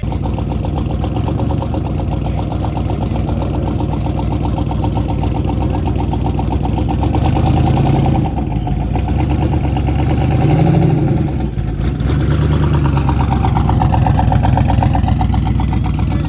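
Car engine running loud and steady, its note lifting briefly a few times midway.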